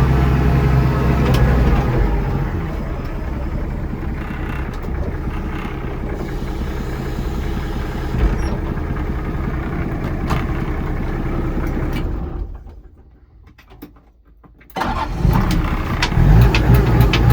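Mitsubishi FD35's diesel engine running fast at first, then settling to a steady idle. About twelve seconds in it is shut off and dies away, and after a couple of seconds it is restarted and runs again, with a few clanks along the way.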